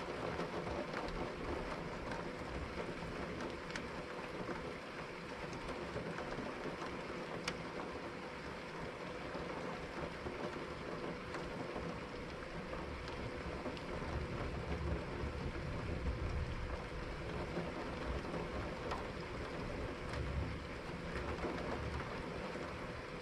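Steady rain falling, with scattered drop taps, and a low rumble that swells and fades in the second half.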